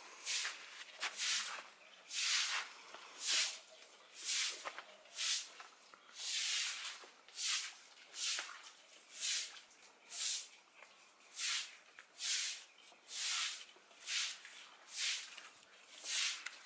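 Paintbrush strokes scrubbing over rough textured concrete, a rhythmic scratchy swish about once a second.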